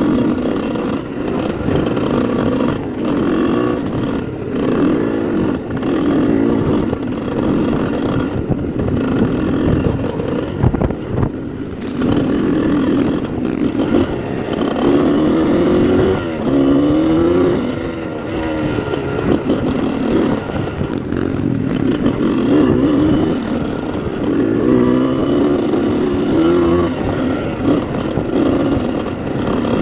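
Motocross dirt bike engine running hard under constantly changing throttle, its pitch rising and falling again and again.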